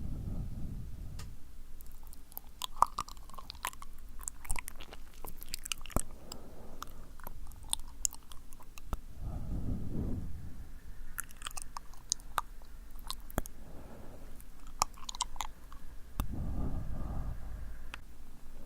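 Close-miked ASMR mouth sounds: wet, sticky clicks and smacks of lips and tongue. Slow breaths are blown onto the microphone now and then, about three times, as ear blowing.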